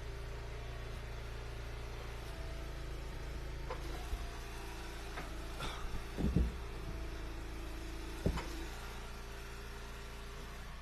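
Eastonmade wood splitter's engine running steadily, with a few sharp knocks and cracks about six seconds in and one more about two seconds later.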